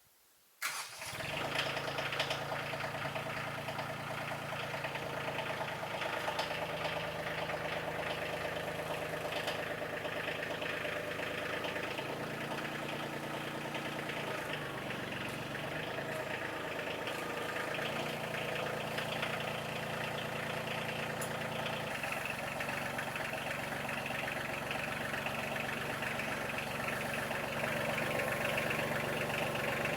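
Small gas engine of a Norwood portable band sawmill running steadily while milling boards. Its pitch sags and wavers between about 12 and 18 seconds in and changes again at about 22 seconds in.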